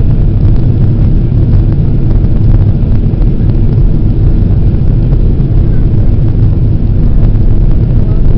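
Steady drone inside the cabin of a Boeing 767-400 airliner on approach: engine and airflow noise, strongest in the low end and unchanging.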